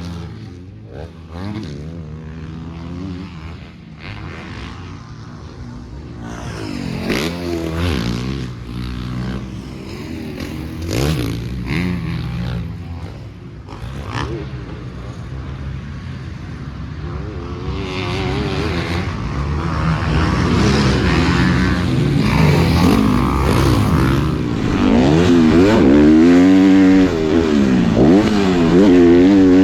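Motocross dirt bike engine revving hard and easing off as it rides a track, its pitch climbing and dropping again and again. It gets louder toward the end, with a few short clatters in the first half.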